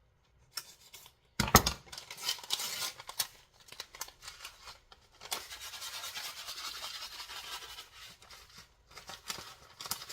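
A paper packet of dry onion soup mix being torn open and handled, with a sharp knock about a second and a half in. Scratchy rustling follows, then a steady hiss for a few seconds as the dry mix is shaken out.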